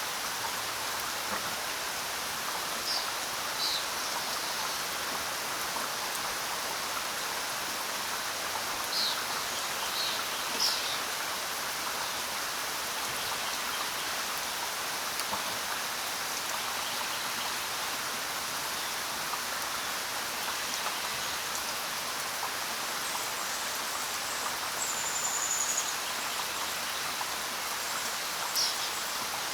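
Steady rain falling, an even hiss of drops, with a few short high bird chirps now and then and one brief whistled note about three-quarters of the way through.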